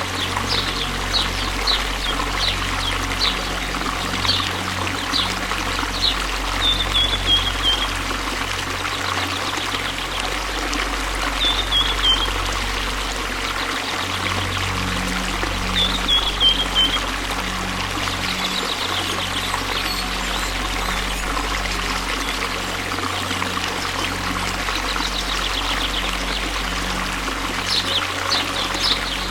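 Waterfall: steady, continuous rushing of falling water. Short high chirps come and go over it throughout.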